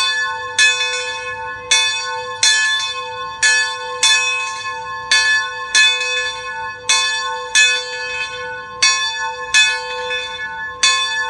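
Locomotive bell ringing steadily, struck about one and a half times a second, each clang sustaining into the next.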